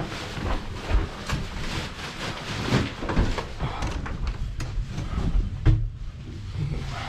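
Blizzard wind rumbling on the microphone, with irregular thumps and crunches throughout.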